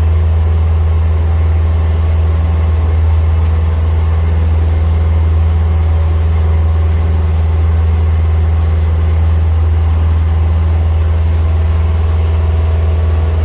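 Small fishing boat's engine running steadily at cruising speed, a constant low drone with wind and water noise over it.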